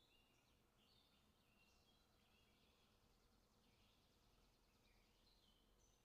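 Near silence, with faint, short, high chirps that come and go throughout.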